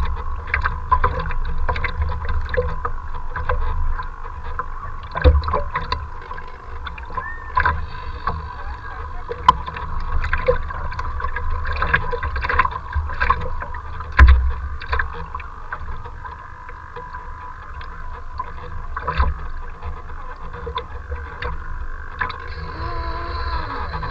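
Strong wind buffeting the microphone with a steady low rumble and gusty thumps, the loudest about five and fourteen seconds in, over choppy water splashing with scattered knocks. A faint steady whine runs underneath.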